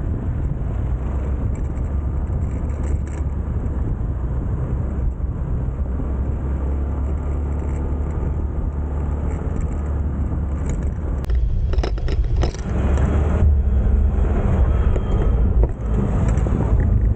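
Small motorcycle engine running while riding, with wind and road noise; the pitch shifts a little with the throttle, and it gets louder about twelve seconds in.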